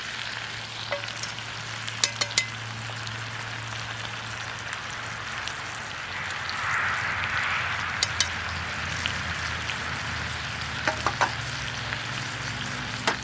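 Chicken steak sizzling as it cooks over a campfire: a steady frying hiss that swells briefly about halfway, with pairs of sharp clicks every few seconds.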